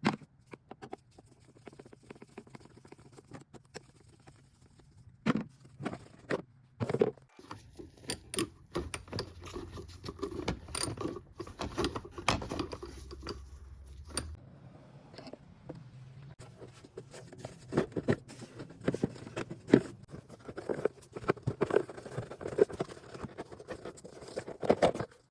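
Irregular clicks, knocks and light scrapes of hard objects being handled, many small sharp strikes spread unevenly through the stretch, with a low steady hum in the middle.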